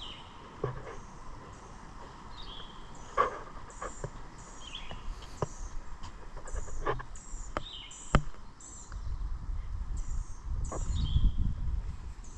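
Birds calling in woodland: a steady series of short, high chirps about once or twice a second, with a few lower chirps among them. Scattered sharp clicks from footsteps on the trail, and a low rumble in the last few seconds.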